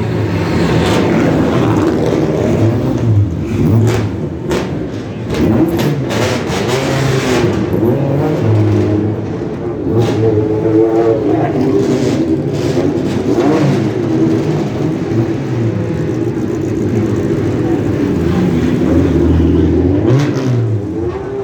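Several sports car engines running and revving, their pitch rising and falling as the cars move along, with a few sharp cracks in the first half.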